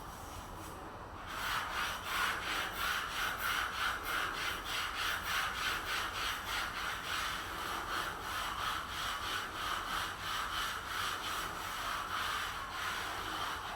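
Hand saw cutting wood in steady back-and-forth strokes, about three a second, starting about a second in and stopping near the end.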